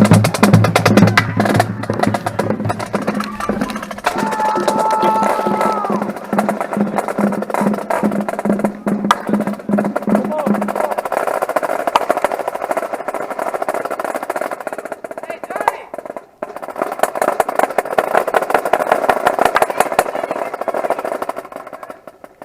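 Marching drumline playing fast, dense drum patterns. A held low tone sounds under the first half and stops about eleven seconds in. The playing drops away near the end.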